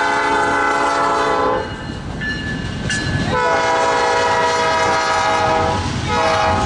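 Locomotive multi-chime air horn sounding two long blasts and a short one, the start of the long-long-short-long grade-crossing signal, over the rumble of the passing train.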